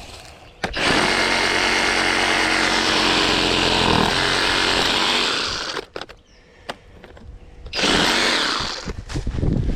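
Cordless brushless Skil reciprocating saw cutting through tree branches: one long run of about five seconds, a short pause, then a shorter burst of cutting near the end.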